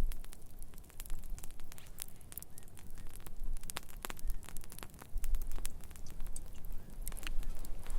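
Wood fire crackling, with irregular sharp snaps and pops over a low rumble.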